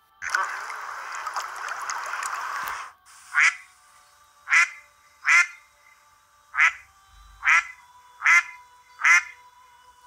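A duck quacking, about eight single quacks at a steady pace, each less than a second apart. The quacks are preceded by nearly three seconds of even rushing noise.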